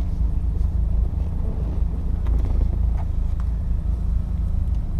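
2008 Saturn Sky Redline roadster driving with the top down: a steady low rumble of engine, road and wind noise heard from the open cockpit, with a few faint ticks partway through.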